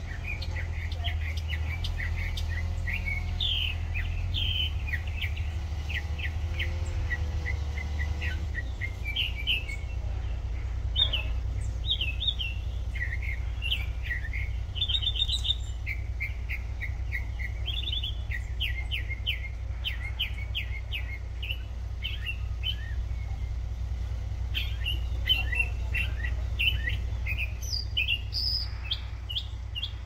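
Songbird singing: a long, fast run of varied high chirps and trills, with phrases repeated, over a steady low rumble.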